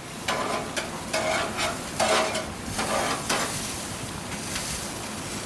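Burger patties sizzling on a grill, a steady hiss with a few short clatters as they are turned.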